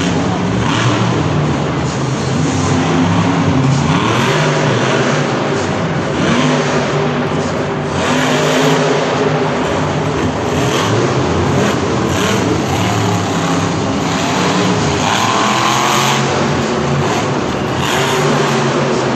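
Monster truck engine revving hard and loud, its pitch rising and falling repeatedly with surges every few seconds.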